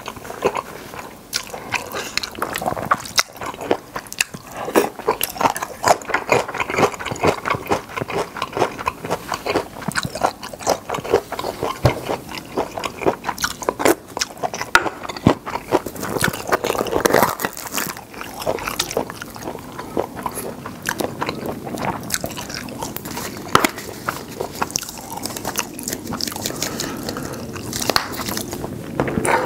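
Close-miked eating of spicy seafood noodle stew: a steady run of wet chewing, biting and crunching mouth sounds with many small clicks and smacks.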